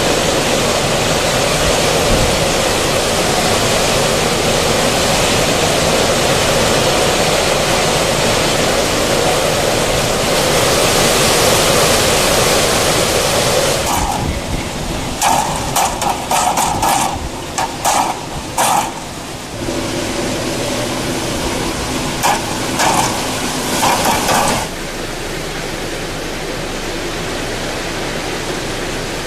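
Wind and rain of a tropical storm: a loud, steady rushing noise for about the first half, then shorter gusty bursts that come and go, and a quieter steady rush near the end.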